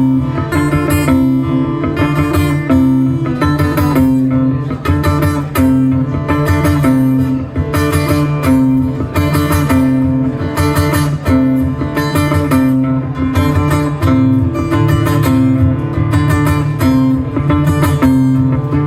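Live acoustic guitar music: a steady instrumental passage of plucked and strummed notes over a repeating bass line, with no singing.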